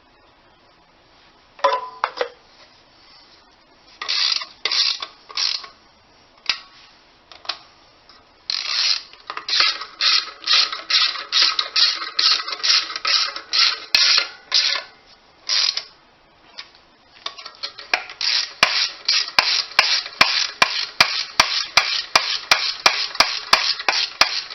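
Hand ratchet wrench running bolts down: a few separate knocks, then the rapid, even back-and-forth strokes of the ratchet, about three a second.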